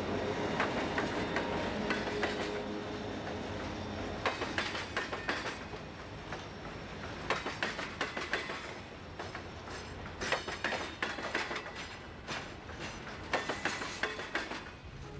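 Empty coal hopper cars of a freight train rolling past, their wheels clacking over the rail joints in quick clusters every few seconds, over a steady rolling rumble. A steady diesel locomotive hum fades out in the first four seconds as the last locomotive goes by.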